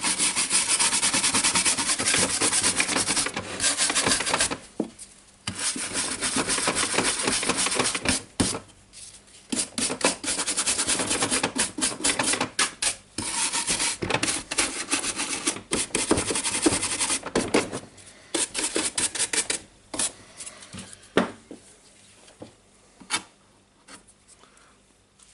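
Brush scrubbing dust off the radio's dirty parts in runs of rapid strokes with short pauses between them, thinning to scattered single scrapes near the end.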